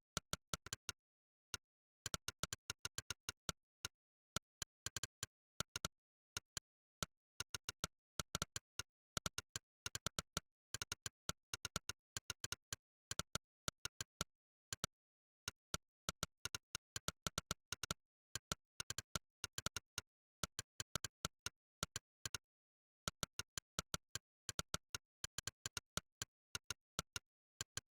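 Monkeytype's synthesized 'click' keystroke sound, one short sharp click for each key pressed, in fast runs of typing broken by short pauses every few seconds.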